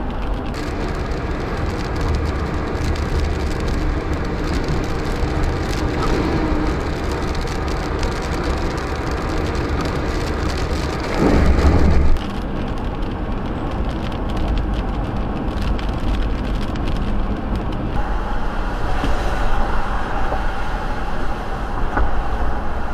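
Thunderstorm noise: steady rain and wind with a continuous low rumble. A louder rumble swells for about a second roughly halfway through.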